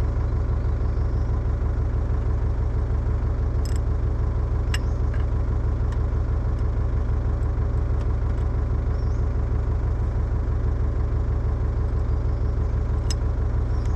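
Diesel excavator engine idling steadily, with a few brief sharp clicks over it.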